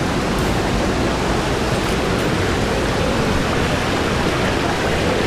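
Steady rush of a waterfall and fast-flowing river water, a loud, even noise with no let-up.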